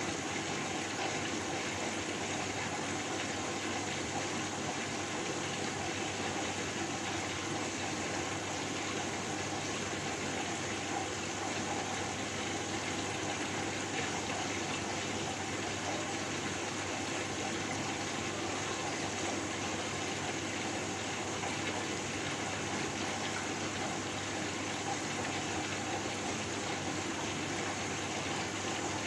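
Steady white-noise hiss, even and unchanging, with no separate events.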